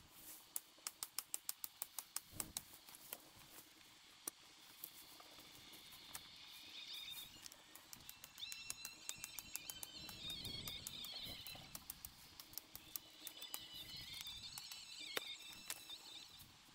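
Small birds chirping and twittering in several overlapping phrases through the second half. Before that, a quick run of sharp clicks, about four or five a second, in the first three seconds.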